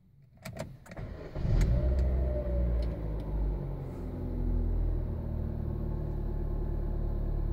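Chevrolet Onix engine being started: a few clicks, a short crank about a second in, then it catches and runs at a raised idle that eases down to a steady idle.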